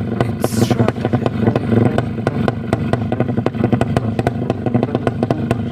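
Race-tuned Yamaha MX motorcycle engine running steadily, with a dense stream of sharp crackles over its low note. A brief hiss comes about half a second in.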